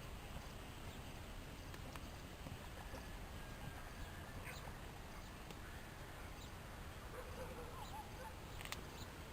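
Faint, scattered animal calls over a steady background hiss, a few short calls about halfway through and toward the end.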